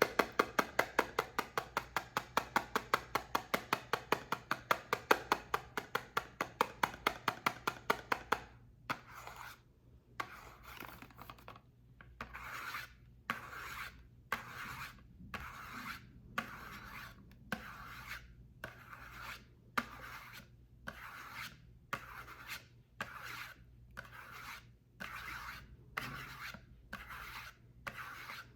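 Soap being worked by hand: quick sharp taps, about five a second, for roughly the first eight seconds, then slower rasping, scraping strokes, a little over one a second, each followed by a short pause.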